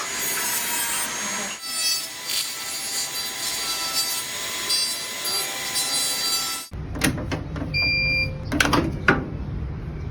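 A dental power instrument whining at a high pitch over a hiss for about six and a half seconds. It cuts off abruptly and gives way to a low hum, two short electronic beeps and a few clicks.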